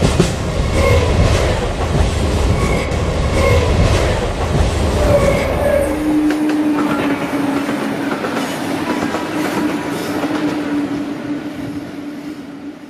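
Express train running past, its wheels clicking over the rail joints over a heavy rumble. About six seconds in the rumble eases and a steady tone comes in, lasting until near the end.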